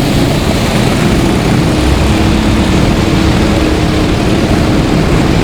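Go-kart engines running as karts race around the track, a loud steady drone with a held engine tone.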